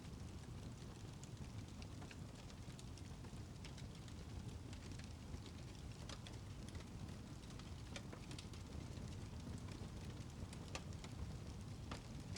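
Wood fire crackling in a fireplace: a steady low rumble of flames with scattered sharp pops at irregular intervals.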